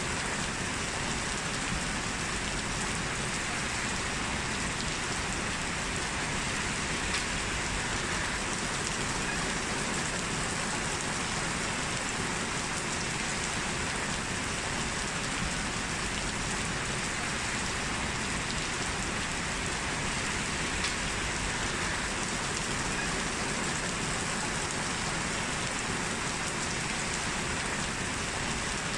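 Heavy rain falling steadily, a dense even hiss of rain hitting the ground and surfaces.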